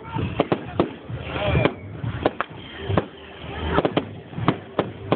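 Fireworks going off: a rapid, irregular series of sharp bangs and cracks, about a dozen in five seconds, with voices of onlookers in the background.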